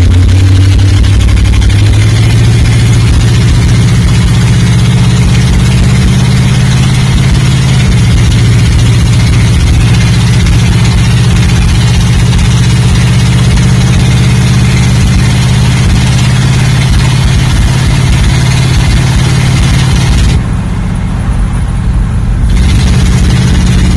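Pontiac 400 cubic-inch V8 running loud and steady after revving up just before. About twenty seconds in it sounds muffled for a couple of seconds.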